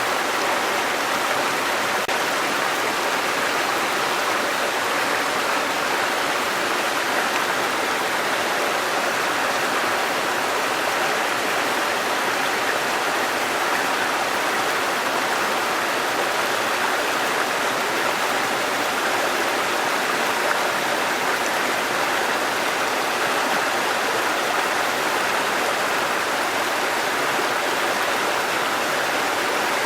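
Waterfall: a steady rush of falling and running water.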